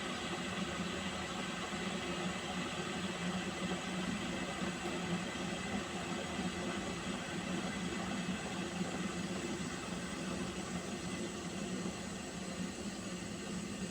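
Water heating in a pot on a stove, giving a steady hissing rumble.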